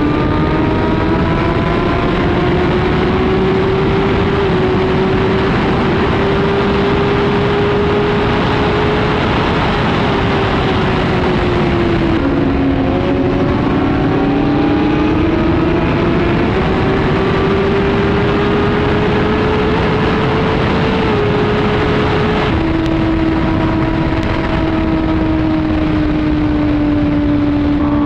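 Superbike engine running at highway speed under heavy wind rush, its note drifting slowly up and down, sagging briefly near the middle and dropping to a lower steady pitch about two-thirds through.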